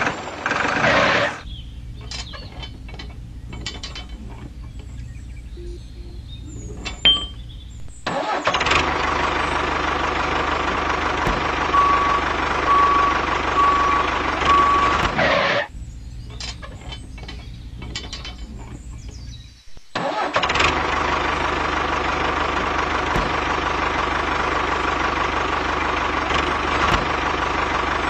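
Tractor engine running steadily, dropping to a quieter level twice for several seconds and coming back up. Four short beeps sound in the middle.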